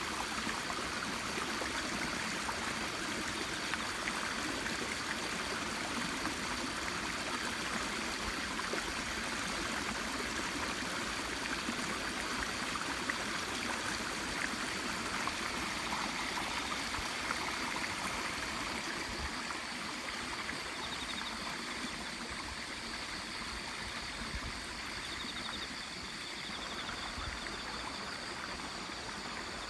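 Water running and trickling steadily, easing a little in the second half. Faint, rapid, high chirping comes in twice near the end.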